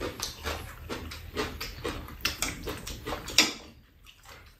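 Close eating sounds: wet chewing and lip smacks of people eating blanched squid with chopsticks, in quick irregular strokes, with one sharp click about three and a half seconds in, after which it goes quiet.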